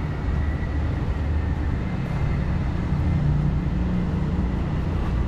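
Car engine running at low speed, a steady low rumble that swells slightly in the middle.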